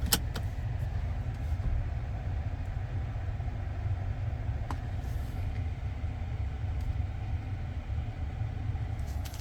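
Steady low rumble, with a sharp click right at the start.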